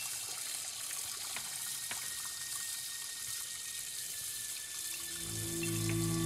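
Water running steadily from a tap into a sink. Low, sustained music notes come in about five seconds in.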